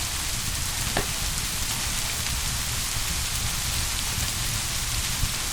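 Steady, dense rain, with one faint click about a second in.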